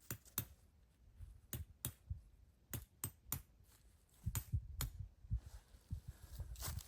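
Irregular sharp clicks and light knocks, with a denser run of soft thumps and clicks about four to five seconds in.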